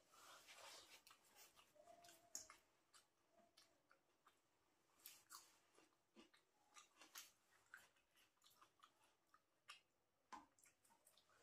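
Faint chewing and wet mouth clicks of a person eating rice by hand, short soft clicks coming irregularly, several a second at times.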